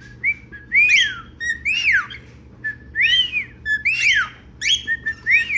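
Male grey cockatiel whistling a repeated phrase, a short level note then a loud rising-and-falling whistle, about five times, roughly once a second.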